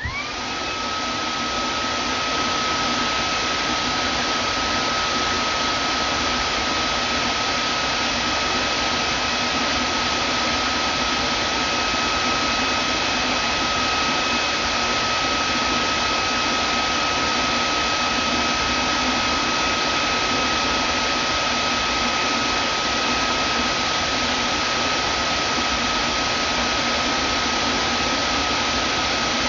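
Vacuum cleaner switched on, its motor spinning up to speed within about a second, then running steadily: a loud, even rush of air with a high, steady whine.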